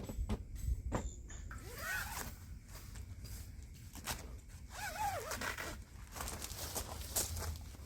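A zipper being pulled twice, each pull a short rasp that slides in pitch, among clicks and rustling from handling gear.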